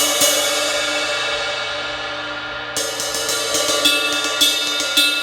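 Cracked 1960s Zildjian 20" A ride cymbal struck over and over in a steady rhythm, ringing with a dense shimmering wash between strokes. The strokes grow heavier and more accented in the second half.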